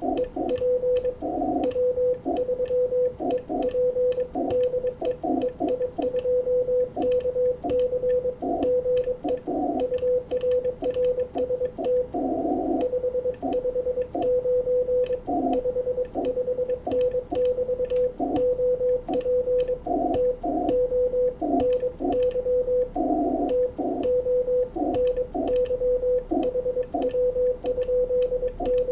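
Morse code on a 20-metre amateur radio transceiver: a steady tone of about 500 Hz keyed on and off in dots and dashes, with sharp clicks of the Morse key throughout.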